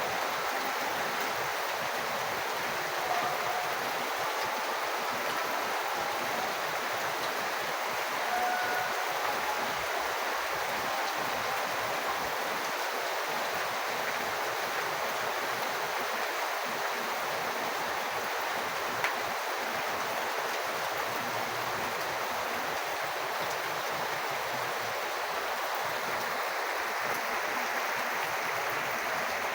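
Steady rush of falling rain water, an even hiss with a couple of faint ticks.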